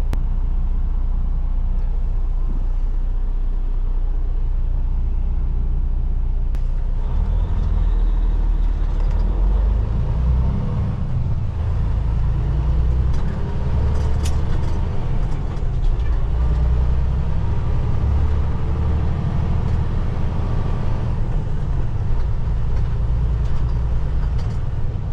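Semi truck's diesel engine heard from inside the cab, running low at first, then from about seven seconds in pulling away with the engine pitch rising as it accelerates.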